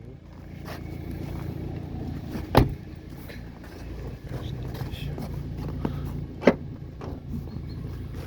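Vauxhall Vectra C's 1.9 four-cylinder turbodiesel running steadily at idle, with a sharp click about two and a half seconds in and another near six and a half seconds.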